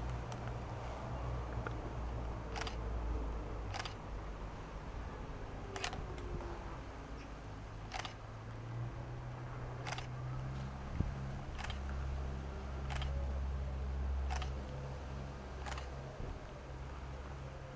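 Camera shutter firing about nine times, a sharp click every one to two seconds, over a steady low hum.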